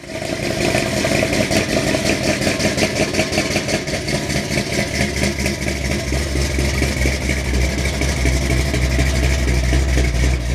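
A 1965 Pontiac Tempest's 455 big-block V8 running at idle through its exhaust, loud and steady, with a deep low rumble that grows stronger about halfway through.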